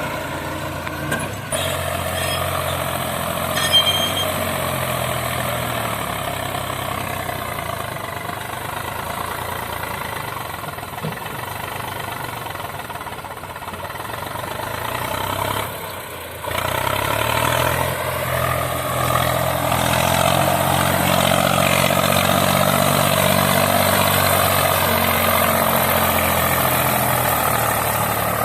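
Diesel tractor engines running hard in a tractor race, with a brief knock about four seconds in. Roughly halfway through, the sound breaks off. It returns louder, the engine pitch rising over a few seconds and then held high and steady.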